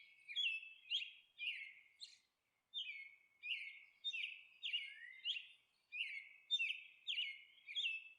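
Birds chirping: a steady run of short, high, falling chirps, about two a second.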